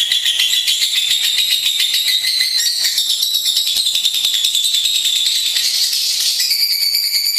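Lovebird singing: an unbroken run of rapid, high-pitched chattering trills, its pitch shifting up a little after about six seconds.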